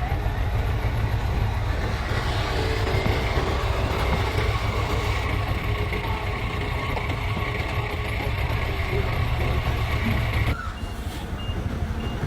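Heavy diesel machinery engine running steadily with a low rumble. About ten and a half seconds in the engine sound drops and a vehicle reversing alarm starts up, a run of short, evenly spaced beeps at one pitch.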